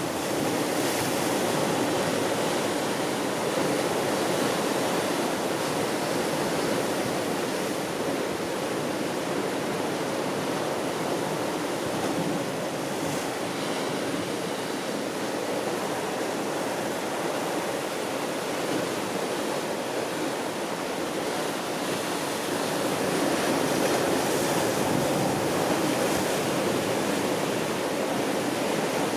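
Steady rushing water, an even hiss with no separate splashes, swelling slightly in level a few times.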